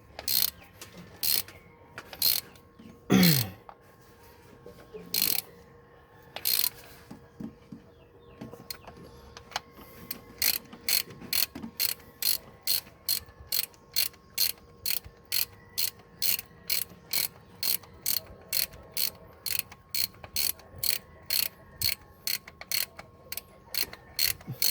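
Socket ratchet wrench clicking as bolts are turned on the engine. The clicks are slow and irregular at first, with a short falling squeak about three seconds in. From about ten seconds in they settle into a quick, even rhythm of about three clicks a second.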